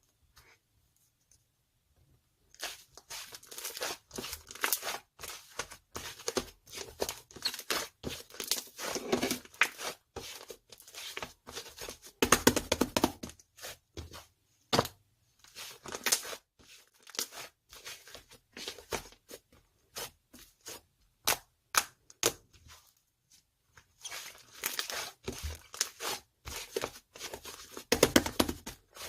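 Slime being squished, stretched and pressed by hand, giving rapid sticky crackles and pops. They start about two and a half seconds in and come in bursts with short pauses.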